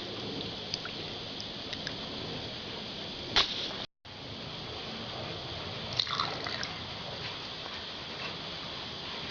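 Liquid trickling and dripping in a Harley-Davidson Sportster cylinder head port during a valve seepage test, over a steady hiss. There are scattered small clicks, with a sharp click a little over three seconds in and a brief dropout just after it.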